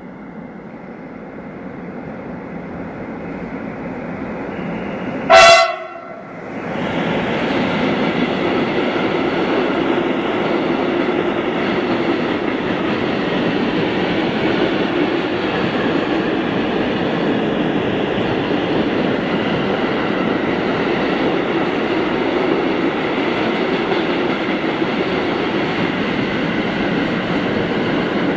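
Container freight train approaching, its noise rising, with one short, loud horn blast about five seconds in. Its long string of container wagons then runs past close by at speed, a steady loud rolling of wheels on rails.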